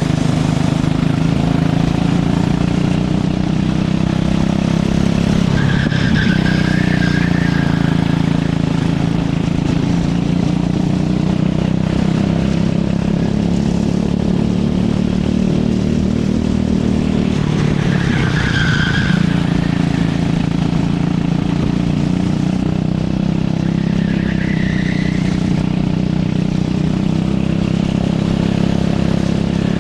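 Go-kart engine running hard, its pitch dipping twice and climbing back as the kart slows for corners and accelerates out. Short tyre squeals come about six, eighteen and twenty-four seconds in.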